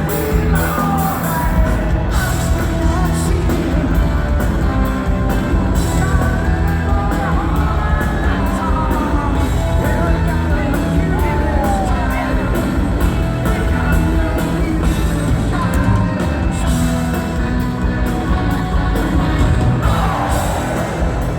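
Rock band playing live with singing, a steady beat and melodic lines sliding up and down in pitch, with whoops and yells from the crowd.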